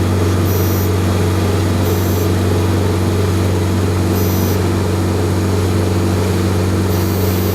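Boat engine running steadily at constant speed, an even low hum that does not change.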